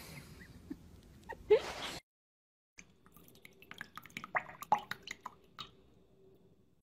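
A short noise about one and a half seconds in. Then faint water drips and small splashes as a duckling paddles in a basin, ending about a second before the end.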